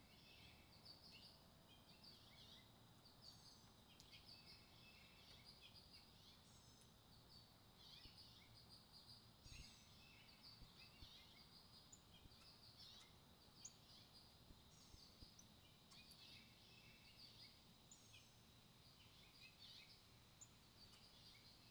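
Faint songbirds chirping and calling, many short high notes and quick trills coming every second or so, over a steady high-pitched hiss.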